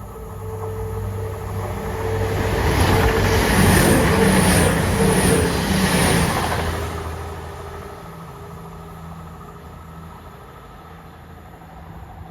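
A train passing through the station: it builds up to its loudest about three to six seconds in, with a regular clatter of wheels at the peak, then fades away under a steady low engine hum.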